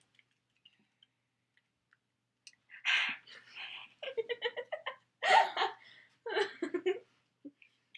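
Young women giggling and laughing in several bursts, starting a few seconds in, with quick breathy ha-ha pulses.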